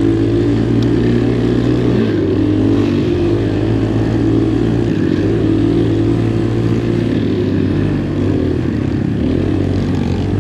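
Single-cylinder four-stroke dirt bike engine running under way on a trail, its revs rising and falling as the throttle is worked.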